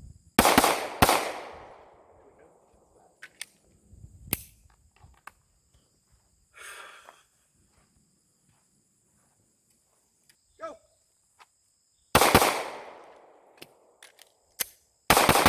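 Pistol shots at a range: two quick shots about half a second apart near the start, a single shot about four seconds in, then after a shouted command two more pairs of shots near the end, each ringing out briefly.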